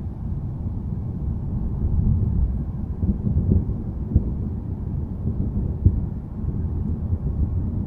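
Low, rolling thunder rumble, continuous and deep, swelling a couple of seconds in, with a few brief crackles.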